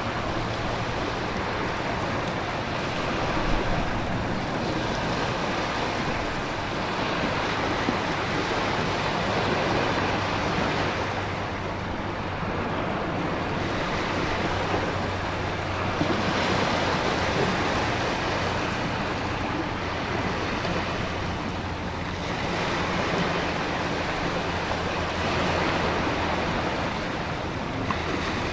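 Storm ambience of heavy rain and ocean surf, a dense, steady rush that swells and eases every several seconds as waves come in, with a low steady drone underneath.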